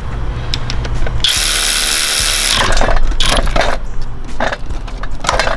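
Hand tools clicking and clanking on metal while the A/C compressor clutch is pried loose, with a loud hiss lasting about a second near the start.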